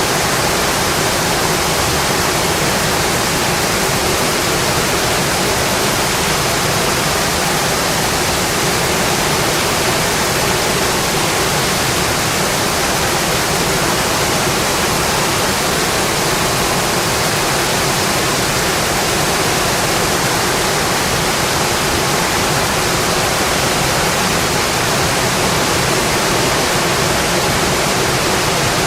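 Steady rainfall, an even hiss that neither rises nor falls, with no separate drops or other sounds standing out.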